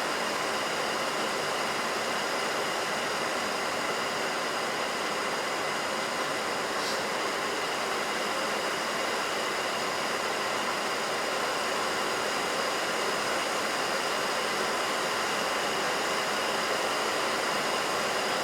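Boeing 737NG flight-deck noise on final approach: a steady rush of airflow and engine noise, with a few faint steady tones underneath.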